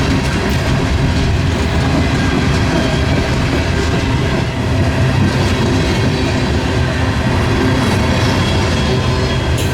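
A train rolling by, with steady noise of wheels on the rails.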